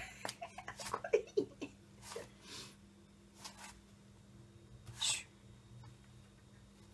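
Cat-like vocal sounds: a quick run of short squeaky cries falling in pitch in the first two seconds, and short breathy hisses or puffs, one near the start, two around two seconds in and one about five seconds in, over a steady low hum.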